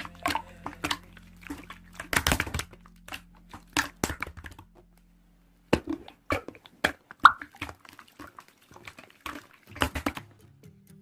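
Slime being handled and squished: a run of irregular sticky clicks and pops, pausing briefly about halfway through.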